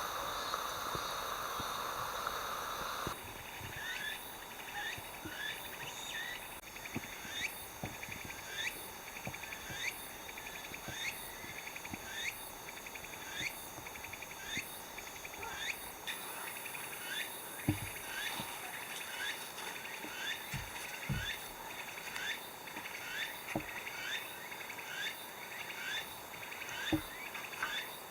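Outdoor insect chorus in autumn: steady high-pitched trilling from several insects, with a short rising chirp-like call repeated a little more than once a second. A rushing noise cuts off about three seconds in, and a few soft knocks come later.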